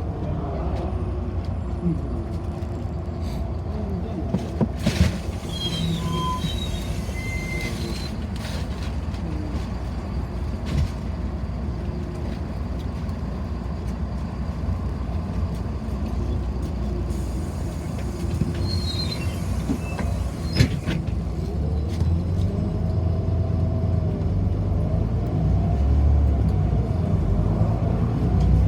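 Inside a city bus on the move: a steady low rumble of the bus running, with a few sharp knocks and rattles and some brief high squeaks. The rumble grows a little louder near the end.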